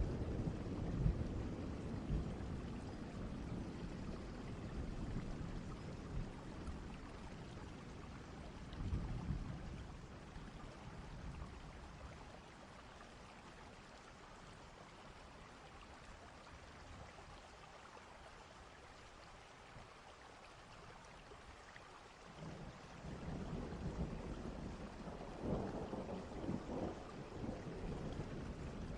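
Distant thunderstorm: steady rain with low rolls of thunder. A rumble fades out at the start, a shorter one comes about nine seconds in, and the thunder builds again a little over twenty seconds in.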